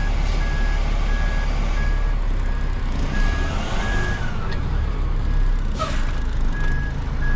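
Hook-lift truck reversing: its backup alarm beeps steadily at about one and a half beeps a second over the engine's low running rumble. A short hiss comes about six seconds in.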